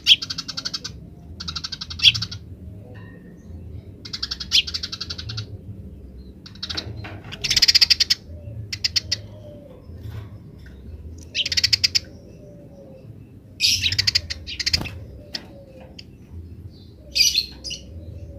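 Eurasian tree sparrows giving their fast chattering 'grece' calls: short rattling bursts that repeat every one to three seconds.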